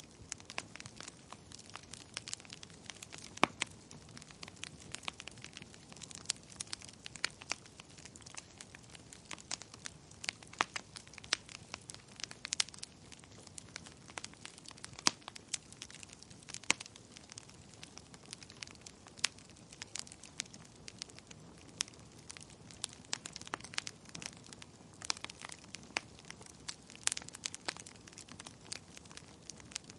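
Fire crackling in a fireplace: frequent irregular pops and snaps over a soft, steady rush of burning.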